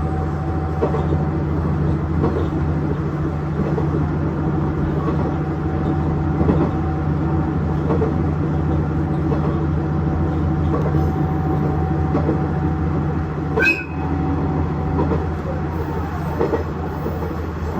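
KiHa 110 series diesel railcar under way, heard from inside: a steady diesel engine drone with the running noise of wheels on the rails. A brief sharp sound stands out about 14 seconds in.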